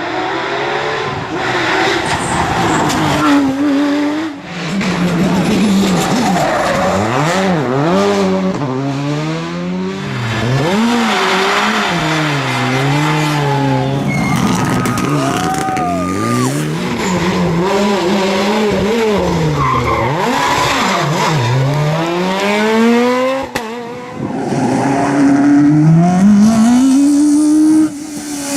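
Rally cars driven hard on a stage, their engines revving up and dropping back again and again through gear changes and lifts, with a long rising-then-falling note near the end as a car passes.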